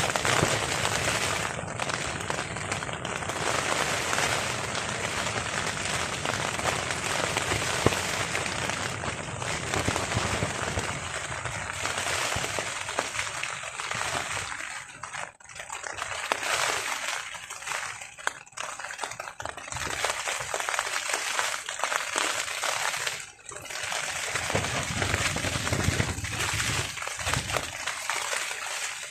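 Heavy rain on a tarp in strong wind, a dense noise that swells and eases, with several brief lulls in the second half.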